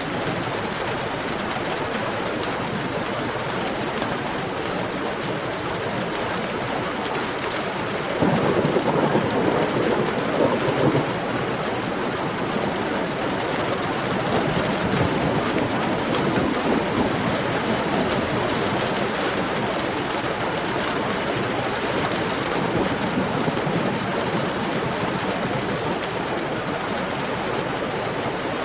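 Heavy rain falling steadily. About eight seconds in, a roll of thunder breaks in sharply, rumbles for a few seconds, then swells again more softly.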